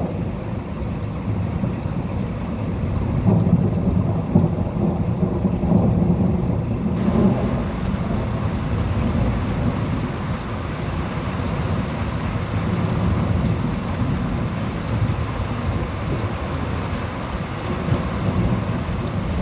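Thunderstorm: low rolling thunder over steady rain. About a third of the way in the rain gets suddenly louder and hissier.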